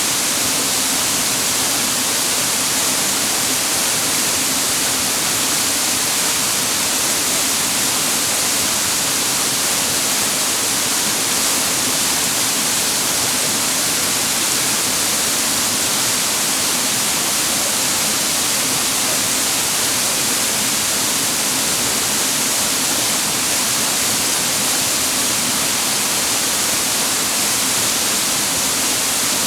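A waterfall's water pouring and splashing down in a steady, even rush, bright and hissy, with no change over time.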